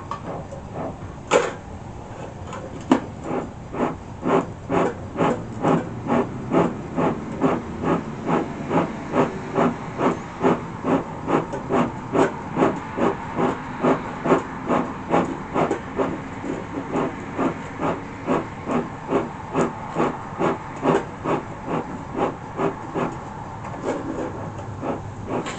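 Bee smoker's bellows pumped over and over, about two puffs of air a second, fanning the smouldering sumac fuel to get the smoker lit. A single sharp snap comes about a second in, before the puffing starts.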